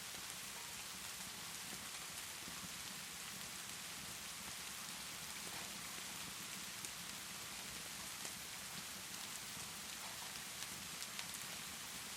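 Steady rainfall mixed with a crackling wood fire: an even hiss of rain with scattered sharp crackles.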